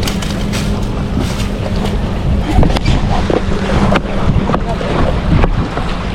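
Sea-Doo three-seat jet ski running on a lake, its steady engine hum fading about a second in, with wind buffeting the microphone and water splashing against the hull.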